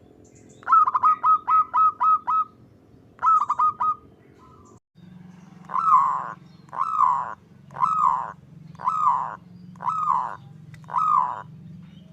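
Zebra dove (perkutut) calling: a quick run of about seven short clipped notes, a brief run of three or four more, then six longer, drawn-out cooing calls about one a second.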